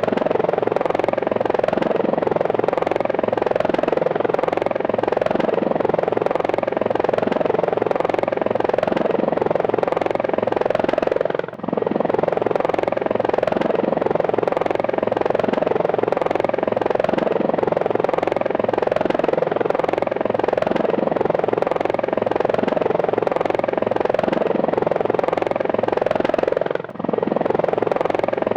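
Helicopter in flight, its rotor blades beating in a steady fast rhythm over the engine's running noise. The sound briefly drops out twice, about a third of the way in and near the end.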